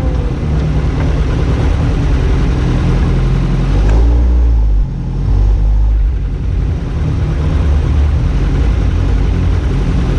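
BAC Mono single-seater sports car's engine running hard as the car drives. The engine note changes briefly about four seconds in.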